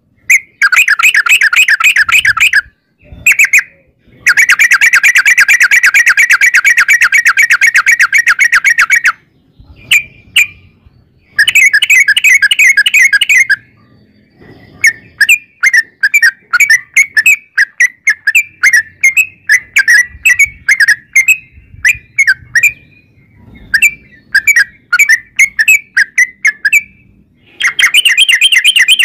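Yellow-vented bulbul (trucukan) singing long, rapid chattering trills: runs of quick repeated notes, the longest lasting about five seconds. In the middle, spaced single notes come about two a second, before another fast run starts near the end.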